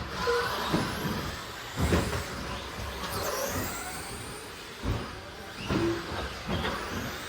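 Radio-controlled stadium trucks racing on a track: motors whining up and down as the trucks pass, over a steady bed of tyre and track noise, with a few thumps.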